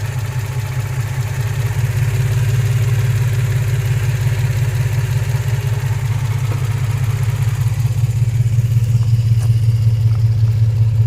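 2003 Infiniti G35's 3.5-litre V6 idling roughly with a heavy misfire, chugging steadily; the mechanic thinks it is running on only three of its six cylinders.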